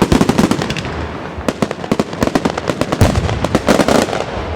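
Aerial fireworks display: shells bursting in rapid strings of sharp cracks and bangs, coming in three dense flurries about a second and a half apart and thinning out near the end.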